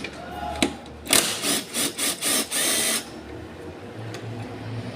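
A power drill run in several short bursts and then one longer run, backing out the headlight assembly's mounting screws.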